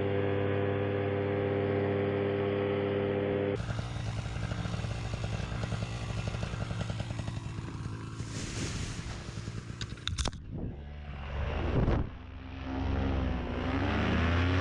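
Paramotor engine and propeller running at high power, a steady droning hum. About halfway through there are a few clicks and a thump, and near the end the engine pitch dips and then climbs back.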